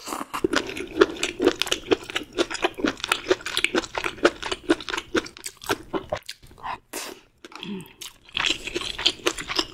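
Close-miked chewing: quick, crisp crunching and wet mouth clicks, several to the second. It pauses about six seconds in, then starts again near the end.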